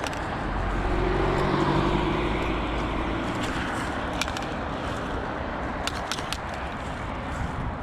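Road traffic going past. One vehicle with a low engine note passes loudest a second or two in, then the steady rush of traffic continues, with a few short clicks near the middle.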